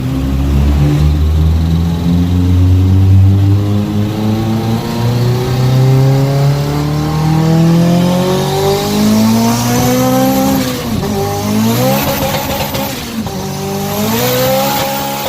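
Turbocharged Honda Civic EG hatchback engine under hard acceleration. Its pitch climbs steadily for about ten seconds, then drops and climbs again several times in quick succession near the end as it runs up through the gears.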